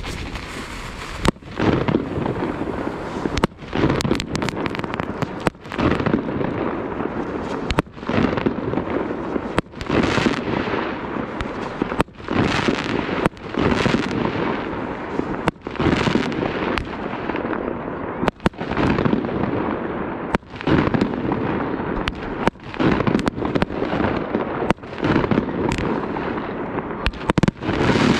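A consumer multi-shot fireworks cake firing from the snow: a long run of sharp bangs every second or so, often in close pairs, starting about a second in, as shells launch and burst overhead.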